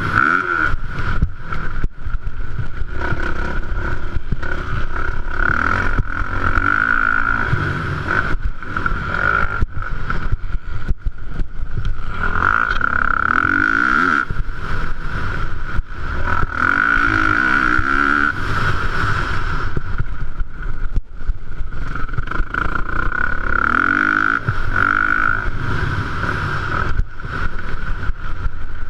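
450cc motocross bikes racing, engines revving up and falling off again and again, with frequent bumps and knocks.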